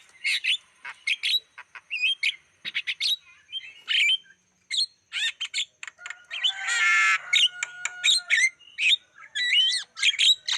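Javan myna (jalak kebo) singing: a fast, varied chatter of short chirps, whistles and squawks, broken about six seconds in by one long harsh, buzzy rasp.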